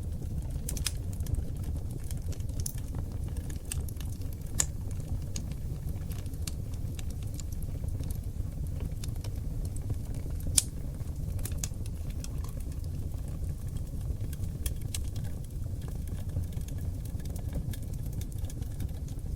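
Wood fire burning on oak logs: a steady low rumble of flame with constant irregular crackles and pops, one sharp pop louder than the rest about halfway through.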